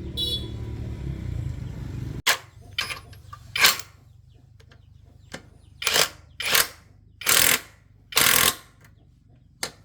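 Electric motor running with a low steady hum, cut off abruptly about two seconds in. After it, a string of short noises, some sharp and some lasting about half a second.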